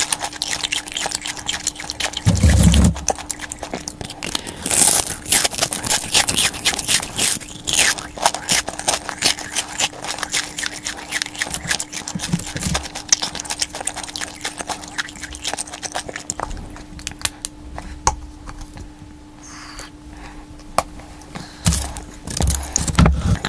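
Close-miked eating of fried chicken skin: a dense run of crisp crunching and crackling as it is bitten and chewed, with a few dull low thuds. A faint steady hum runs underneath.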